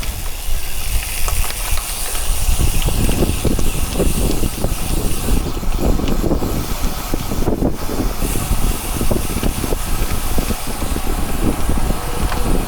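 Steady rushing wind buffeting the microphone with a rough, fluttering rumble and a hiss, the noise of riding along on a bicycle at speed.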